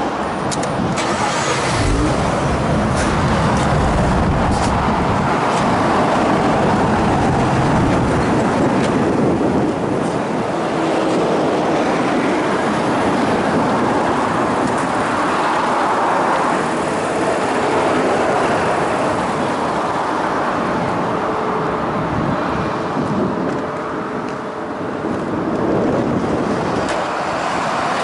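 Mazda RX-8's two-rotor rotary engine running through an aftermarket muffler, a steady exhaust note with a brief dip in loudness near the end.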